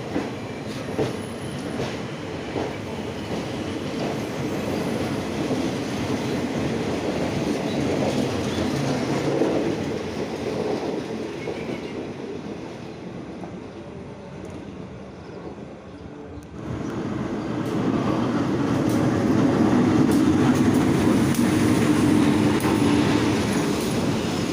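Train running along the rails, the noise of its wheels and cars steady; it fades for a few seconds, then jumps abruptly louder about two-thirds of the way through.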